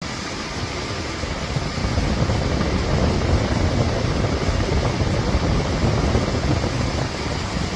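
Portable air conditioner running, its fan blowing a steady rush of air over a fluctuating low rumble.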